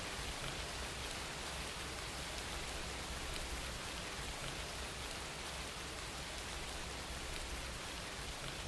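Steady rain falling, an even hiss with faint pattering drops.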